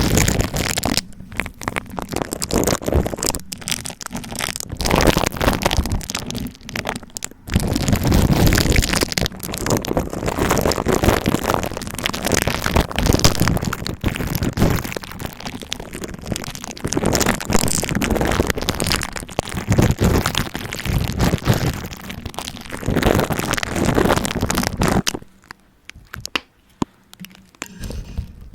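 Dense crackling and rustling right on a high-gain microphone, in long loud stretches with short breaks. It falls to faint scattered clicks about 25 seconds in.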